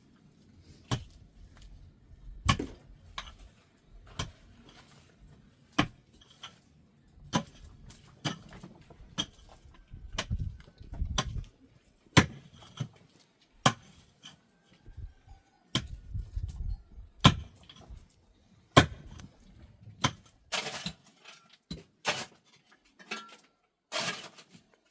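A series of sharp clicks or knocks at irregular intervals, roughly one every second or two, with low rumbling between them.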